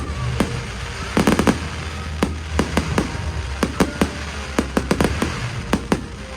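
Fireworks display: sharp bangs going off at irregular intervals, with a quick run of them about a second in.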